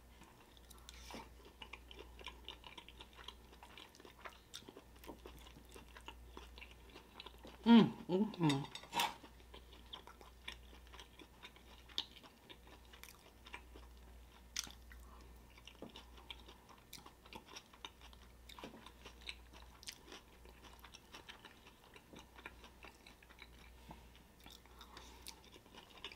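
Close-miked chewing and wet mouth sounds of someone eating a burrito, a steady run of soft clicks, with one short voiced sound about eight seconds in.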